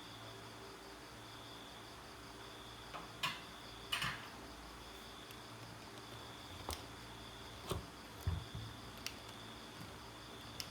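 A handful of short, light clicks and knocks, as of small tools and parts being handled during a blower repair. They sound over a faint, steady high-pitched chirring and a low hum.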